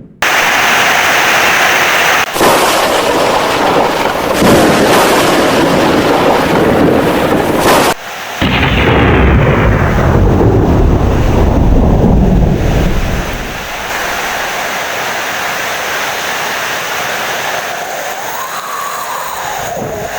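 Heavy rain with loud, rolling thunder rumbling over it, broken by abrupt cuts near the start and about eight seconds in. The thunder dies away a little past the halfway point, leaving steady rain.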